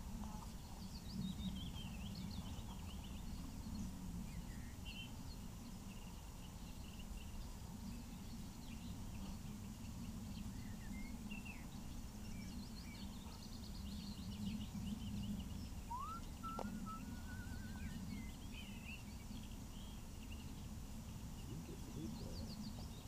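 Small birds chirping and calling on and off, with one rising call running into a short rapid trill a bit past the middle, over a low steady rumble.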